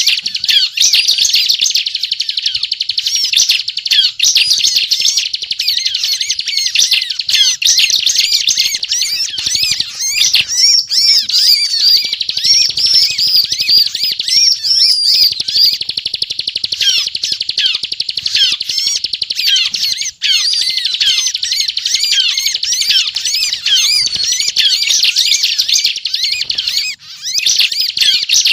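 Bar-winged prinia (ciblek) singing non-stop in a rapid, dense chatter of high chirps and quick warbling notes, the continuous 'ngebren' style valued as a lure call.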